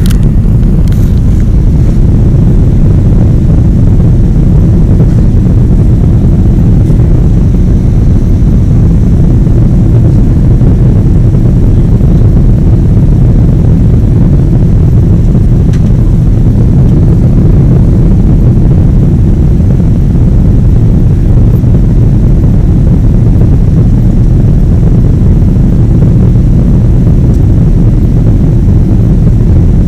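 Boeing 777 jet engines and airflow: a loud, steady low rumble with no change in pitch.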